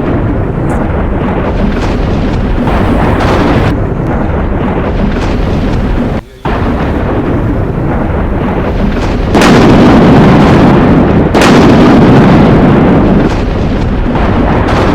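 Thunderstorm: loud, continuous rolling thunder over heavy rain. It breaks off briefly about six seconds in, and swells louder twice in the second half.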